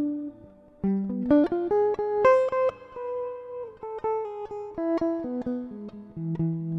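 Stratocaster electric guitar played through a Valeton Dapper Mini amp-simulator pedal. After a brief pause it plays a quick run of single notes, starting about a second in and settling onto longer held notes near the end.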